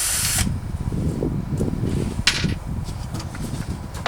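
A loud whirring cuts off suddenly about half a second in. Low rumbling and scraping follow as someone moves about inside a plywood box, with scattered knocks and a sharp click about two seconds in.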